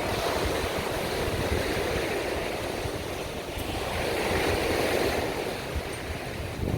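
Strong sea surf breaking and washing up the beach, swelling twice, with some wind rumbling on the microphone.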